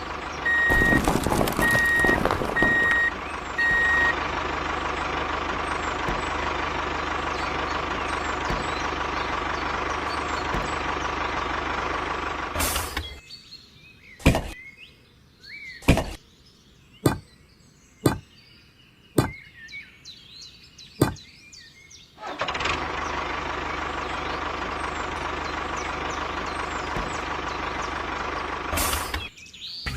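Heavy truck sounds: a reversing alarm beeping steadily for the first four seconds over a running diesel engine. The engine drops out about a third of the way in, leaving a quieter stretch with about seven sharp knocks, then starts running again near the last third.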